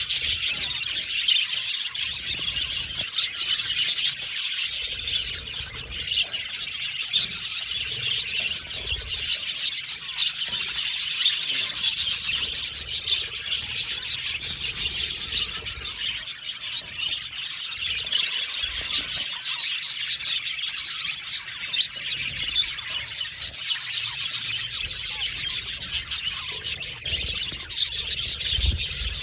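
A colony of budgerigars chirping and warbling together in a dense, continuous chatter.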